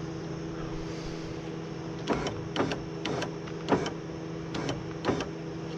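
Power-window lift motor on a new window regulator running with no glass attached, a steady hum, during a bench-style test of the replacement unit. Half a dozen sharp clicks sound over the hum in the latter half.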